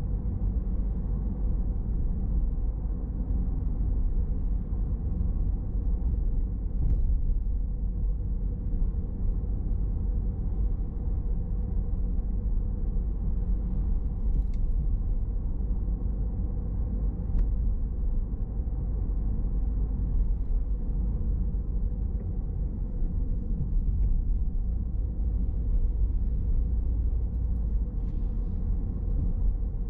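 Car being driven: a steady rumble of engine and road noise with an even pitch and a faint steady hum above it.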